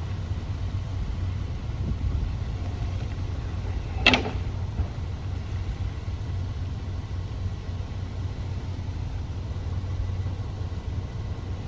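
Subaru SUV engine running steadily at low revs, a continuous low rumble, with a single short sharp sound about four seconds in.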